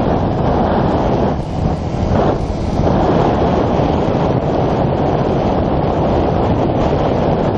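Heavy wind noise buffeting the microphone on a moving motorcycle, with the bike's running and road noise underneath.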